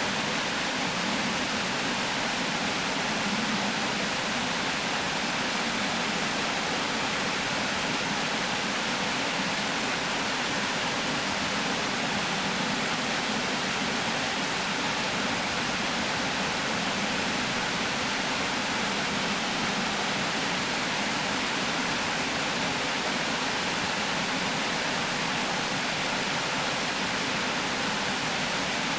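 Water pouring over a river weir: a steady, unbroken rush.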